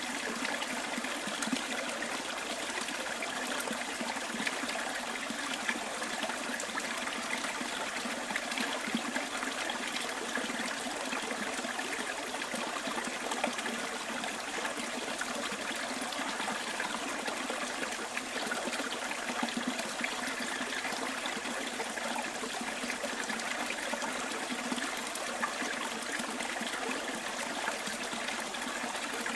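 A stream flowing with a steady, even trickle of water.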